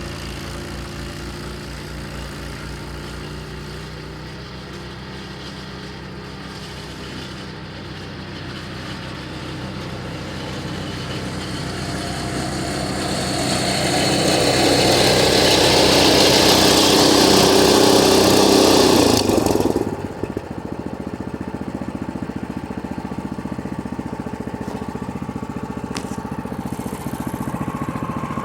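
Snowblower's 6.5 hp 208 cc single-cylinder engine running steadily. A rushing noise builds from about a third of the way in, becomes loud, and cuts off suddenly about two-thirds through.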